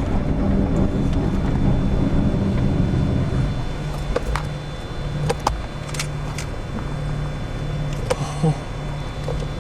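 Wind buffeting the microphone as a low rumble, with a car engine running under it and a few sharp clicks of handling. The rumble eases after about three seconds, leaving a steadier low hum.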